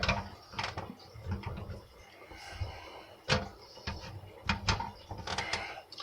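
Garbage disposal being twisted onto its under-sink mounting ring: a string of sharp clicks and knocks, about ten in six seconds, with handling rustle between them, as the unit resists locking into place.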